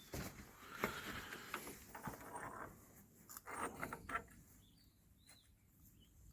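Faint knocks, clicks and scraping of metal parts being handled while a spline drive is worked onto a half shaft in a Manitou rear brake assembly. After about four seconds it goes nearly quiet, with a few faint high chirps.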